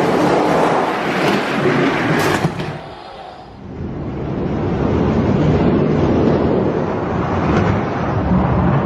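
Hot Wheels diecast monster trucks rolling down a plastic track: a continuous rolling rumble with a few sharp clacks in the first couple of seconds. It dips about three seconds in, then builds again.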